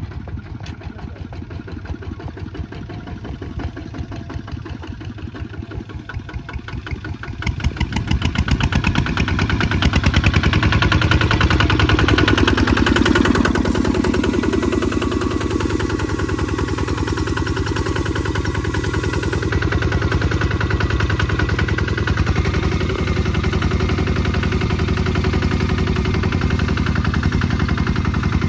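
Kubota ZT 155 DI walking tractor's single-cylinder diesel engine running with rapid, even firing pulses. About seven seconds in it speeds up and gets louder, then holds steady at higher revs, as when working under load.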